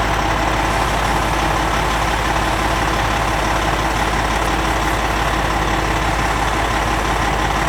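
A heavy engine idling steadily, with wind rumbling on the microphone.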